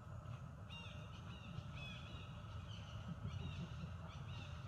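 A bird calling again and again in short, high chirps that fall in pitch, often two in quick succession, over a steady low rumble.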